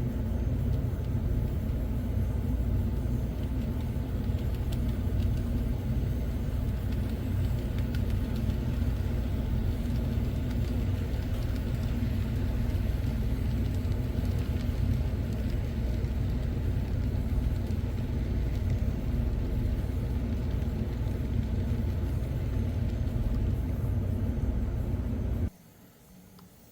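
Model ICG coal train running past, a steady low rumble that cuts off suddenly near the end.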